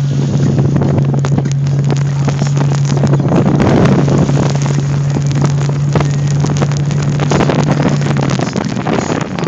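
Car being driven, with a steady low engine drone and road noise heard from inside the cabin, dotted with frequent crackles and knocks; the drone drops away near the end.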